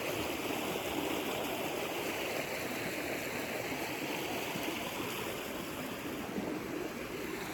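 A river flowing steadily, a continuous even rush of water.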